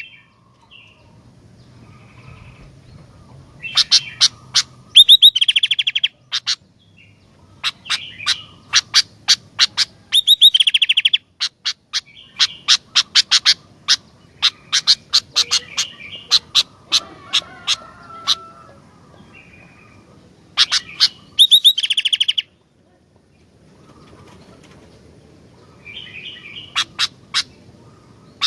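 Sooty-headed bulbul (kutilang) calling: groups of sharp, rapid chattering notes, with dense quick runs three times, separated by short pauses.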